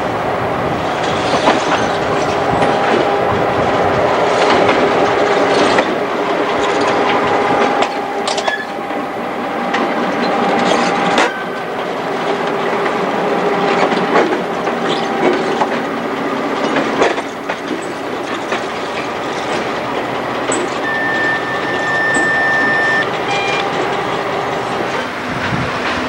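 Railroad cars rolling past close by, wheels clattering over the rail joints with a steady metallic whine from the wheels and a brief high squeal near the end.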